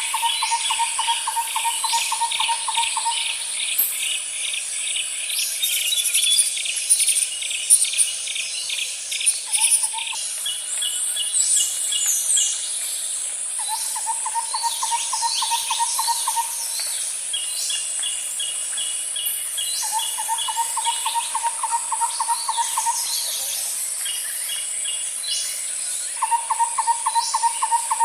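Layered outdoor ambience of birds and insects: a steady high insect drone, with a low pulsing trill that comes back every several seconds. Quick ticking call trains and scattered bird chirps run over the drone.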